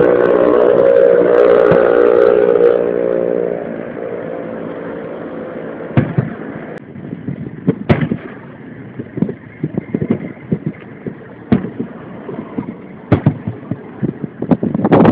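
Aerial fireworks shells bursting over the bay, picked up by a mobile phone's microphone. The first three seconds hold a loud, steady-pitched sound, followed by separate sharp bangs from about six seconds in and a run of rapid crackling pops.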